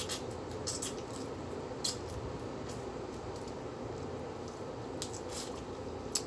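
A person chewing food with the mouth open close to the microphone. Short smacks and clicks come every second or so over a steady low room hum.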